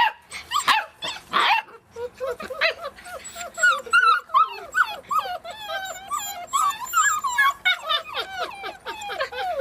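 A litter of month-old puppies whimpering and yelping, many short high cries overlapping one another. There are a few rougher yelps in the first couple of seconds.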